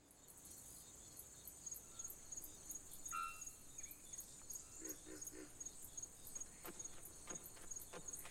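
Faint, high-pitched insect chirping that pulses at an even rate throughout, with a few brief short chirps about three seconds in.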